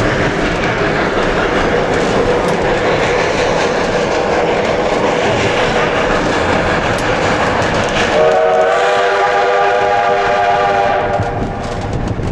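The 1880 Train's steam locomotive and cars running along the track with a steady rumble and clatter. About eight seconds in, the steam whistle gives a long blast of a few seconds, a chord of several steady pitches.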